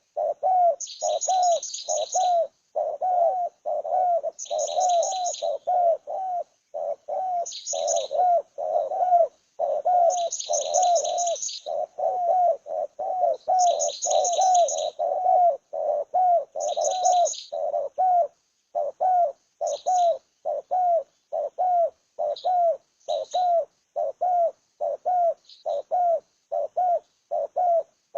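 Birds calling: one keeps up a short, low call about twice a second without a break, while bursts of high, rapid chirping come in over it and thin out in the second half.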